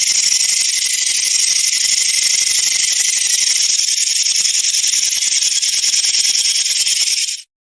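Rattlesnake shaking its tail rattle: a steady, high, dry buzz that stops suddenly near the end.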